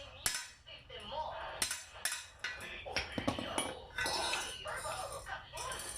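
Sharp metallic clinks and taps at irregular intervals, over people talking.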